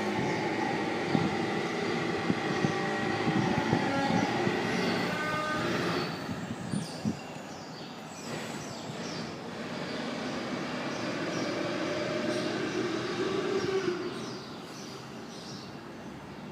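Several long, overlapping drawn-out tones at different pitches over a low rumble, with scattered knocks. Loudest for the first six seconds, then quieter, with a lower tone swelling before the sound drops off about fourteen seconds in.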